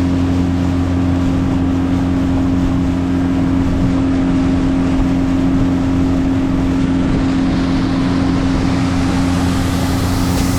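Jon boat's outboard motor running at a steady speed, with water and wind noise underneath.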